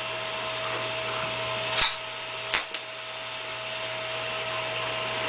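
Steady mechanical hum, like a small motor running, with two sharp knocks about two and two and a half seconds in.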